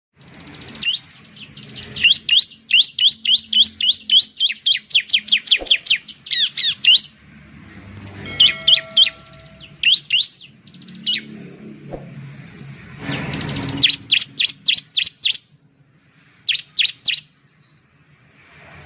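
Bar-winged prinia (ciblek) calling: bursts of rapid, sharp notes, each sweeping down in pitch, about four or five a second. A brief burst of noise comes about two thirds of the way through.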